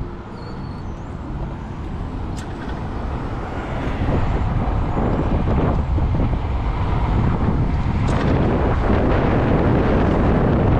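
Wind rushing over a helmet-mounted action camera, mixed with tyre and road noise, as an electric motorcycle pulls away from a stop up a steep hill. The noise builds over the first four seconds as speed rises, then holds steady. No engine is heard.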